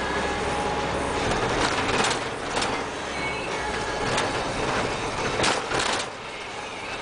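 Iveco Daily 35S14 diesel van running, a steady haze of vehicle noise with several sharp clatters about two, four and five and a half seconds in.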